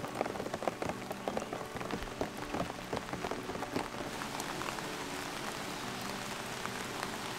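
Rain falling and pattering on hard surfaces, with many separate drops ticking over a steady hiss. The drop ticks are thickest in the first half and settle into a more even patter later.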